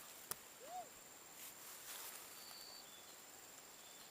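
A dove hooting faintly: one short note that rises and falls, heard about three-quarters of a second in and again near the end, with a sharp click just before the first hoot.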